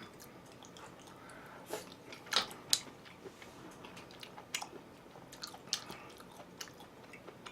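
A person chewing food close to the microphone, with scattered crunches and wet mouth clicks at irregular intervals.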